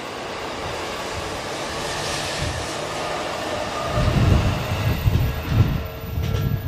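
Electric commuter train running past a station platform at close range: a steady rush of wheel and running noise. About four seconds in it turns into heavy, uneven low rumbling as the cars go by right beside the microphone.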